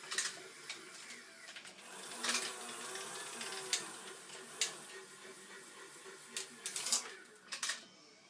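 Small electric motors and gearboxes of a radio-controlled model excavator whining as it works, the pitch sliding up and down. Several short sharp rattles and clatters come through, the loudest about 2, 4.5 and 7 seconds in.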